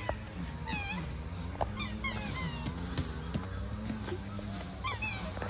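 Birds calling: short, falling, whistle-like calls, one after another and sometimes overlapping, over a low steady hum.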